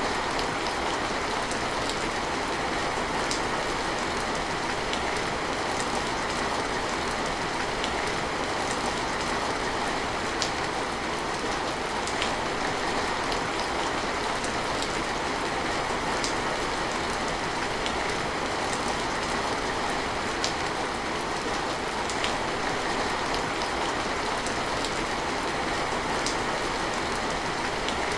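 Steady rain falling, an even hiss with scattered sharp drip ticks of individual drops landing.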